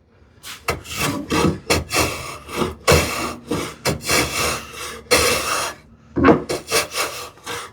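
Long-soled hand plane taking a shallow cut along the edge of a wooden drawer side: a quick series of short rasping strokes of steel shaving wood, with a brief pause about six seconds in before a few more strokes.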